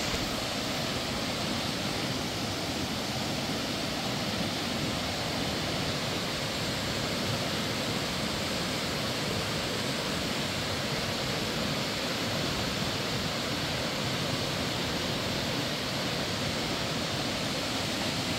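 Steady, even rushing noise that holds the same level throughout, with no breaks or distinct events.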